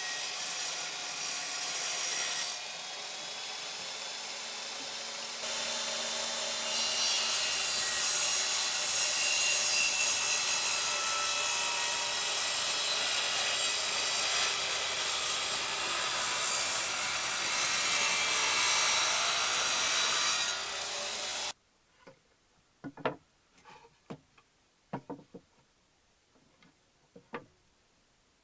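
Wood being sawn or rasped with a tool: a steady scraping noise that runs for about twenty seconds, then cuts off suddenly. A few light knocks of wooden pieces follow.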